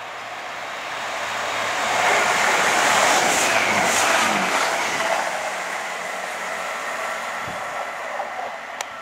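A Class 165/166 Networker Turbo diesel multiple unit passing close at speed: engine and wheel-on-rail rumble swell, peak about two to four seconds in, then fade as it runs away. A brief sharp click near the end.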